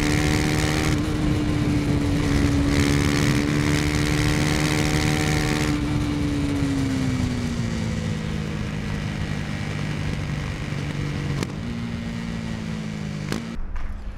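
KTM Duke 250's single-cylinder four-stroke engine running at a steady high speed, then dropping in pitch about six seconds in as the throttle closes and the revs fall. It runs on at the lower note until it cuts off abruptly near the end.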